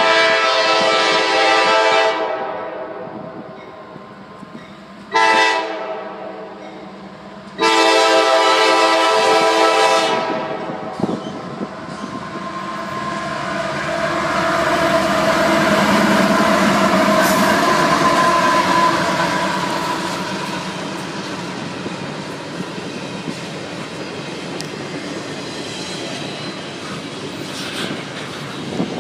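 A CSX train's air horn sounds three blasts, long, short, long, in a multi-note chord. The train then rolls slowly past: the locomotive's rumble swells and fades, and the cars run on with steady rail noise.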